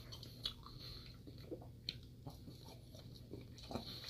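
A person chewing a mouthful of potato, with soft, scattered small clicks and wet mouth noises.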